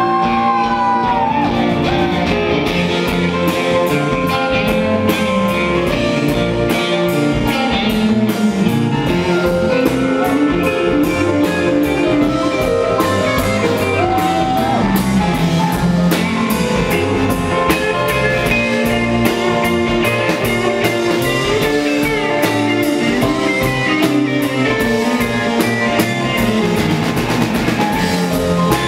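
Live rock band playing an instrumental break: electric guitar lead over bass and a steadily beating drum kit.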